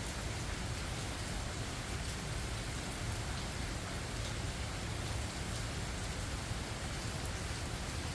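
Steady rain falling, an even hiss with scattered drops and no thunder.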